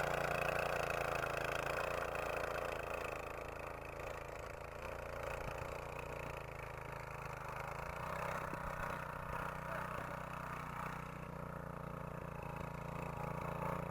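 Small single-cylinder engine of a tracked walk-behind tractor (motoblock) running steadily.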